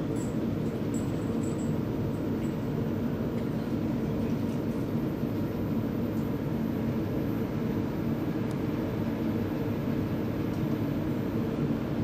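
Steady rumble of a train running at speed, heard right behind a DB class 112 electric locomotive: wheels on rails and running gear at an even pace with no change.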